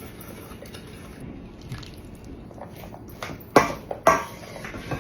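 Soft wet sounds of salad dressing being stirred and poured, with two sharp knocks of a utensil against the bowl about three and a half and four seconds in.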